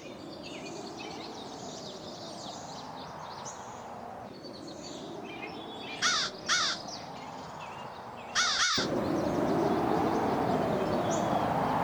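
Crow-family bird cawing twice about six seconds in and once more near eight and a half seconds, over outdoor ambience with small birds chirping. The background grows louder about nine seconds in.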